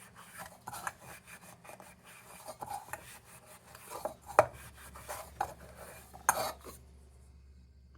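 Hand rubbing and scrubbing on a small metal lantern part in short irregular strokes, with two sharp clicks, about four and six seconds in; the rubbing stops near the end.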